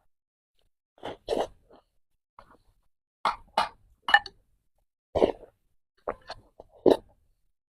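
Close-miked eating sounds: wet chewing, smacking and swallowing of milk-soaked peach crisps and bread. They come as short separate mouth noises, about ten of them at an uneven pace, with silence between.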